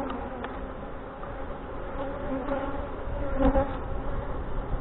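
Honey bees buzzing around an open hive, a steady wavering hum. A light knock comes about three and a half seconds in.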